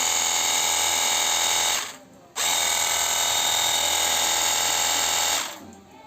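Cordless battery-powered portable pressure washer's motor and pump running with a steady high whine. It stops about two seconds in, starts again a moment later, and winds down near the end.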